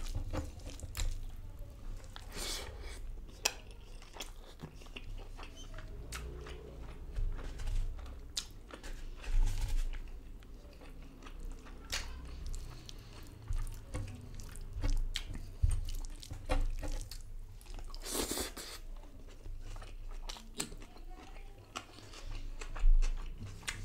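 A person chewing and biting mouthfuls of fish and rice, close to the microphone: irregular clicks and smacks.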